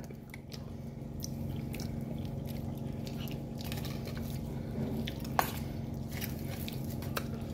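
Someone chewing food close to the microphone, with faint scattered clicks and one sharper click about five seconds in, over a steady low hum.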